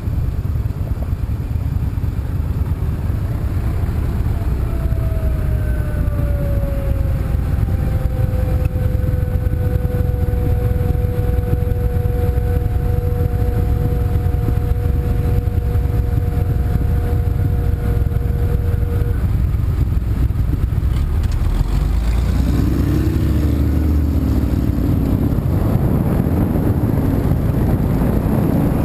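A car on the move: steady low road and engine rumble. In the middle a steady tone slides down in pitch and then holds for about a dozen seconds before stopping, and near the end a pitched sound wavers up and down over the rumble.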